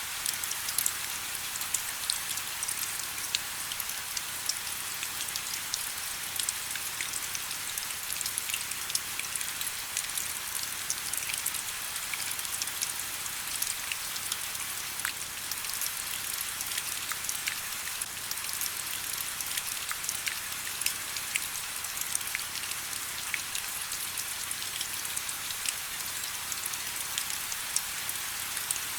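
Steady rain with many distinct drops pattering on a surface, a dense hiss of fine drops with little low end.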